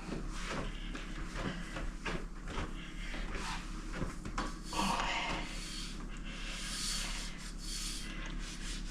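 A cloth wiping a stovetop, in irregular rubbing strokes with small knocks.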